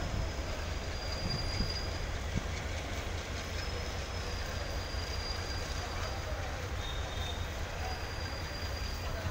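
Goods train wagons rolling on a far track: a steady rumble with faint, high wheel squeals that come and go.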